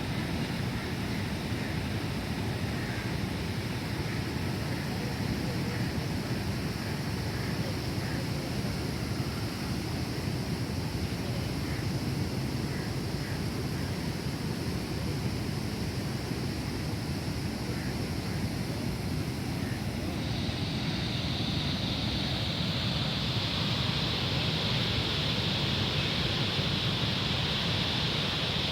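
Steady rush of flowing canal water with a low rumble. About twenty seconds in, a brighter hiss comes up over it and stays.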